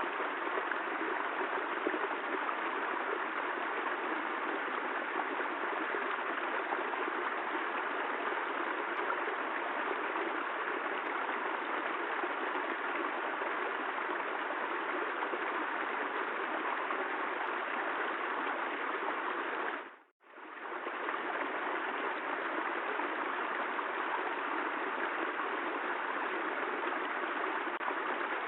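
Steady rain, an even hiss. About twenty seconds in it briefly fades out to silence and comes straight back.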